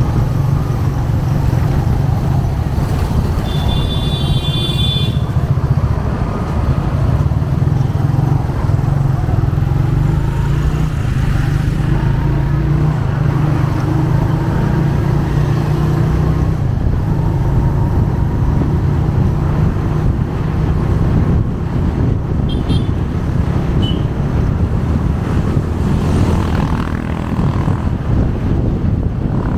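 Motorcycle engine running steadily at riding speed, with road and traffic noise around it. A horn sounds briefly, for about a second and a half, a few seconds in.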